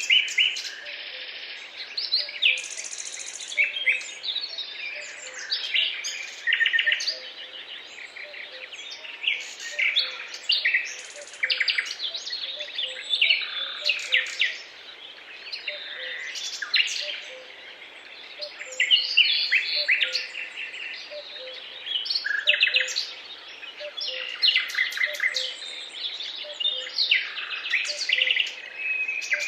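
Several songbirds singing and chirping at once, a dense chorus of short trills and warbles that overlap without pause.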